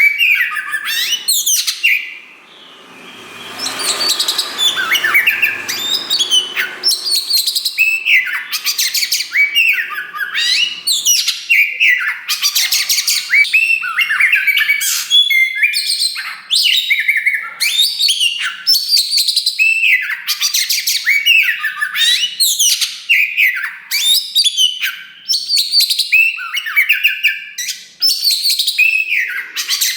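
Kacer wulung, the all-black form of the oriental magpie-robin, singing loudly and continuously: a fast, varied stream of rising and falling whistles, trills and sharp clicky notes, with a brief drop in volume about two seconds in.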